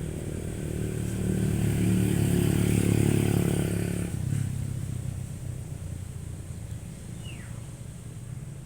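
Car engine running under load, growing louder from about a second in, then dropping off suddenly about four seconds in, as when the accelerator is released, and settling back to a quieter steady run.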